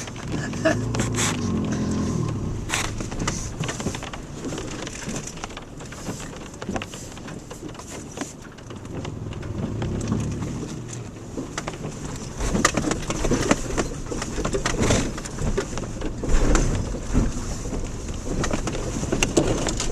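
Inside a Subaru Outback on a rough dirt road: the engine runs with its note swelling and falling twice, over steady tyre rumble on gravel. The car knocks and rattles over bumps, heavier in the second half. The knocking underneath is taken by the driver for the tow hitch or the exhaust pipe hitting.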